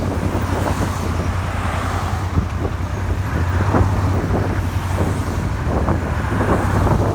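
Suzuki SV400 V-twin engine running steadily while the motorcycle is ridden, with wind buffeting the microphone.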